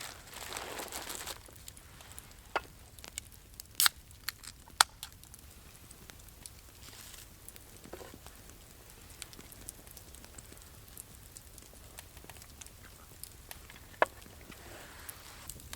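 A brief rustle, then a few scattered sharp clicks and pops over a quiet background. The loudest come about four to five seconds in and again near the end.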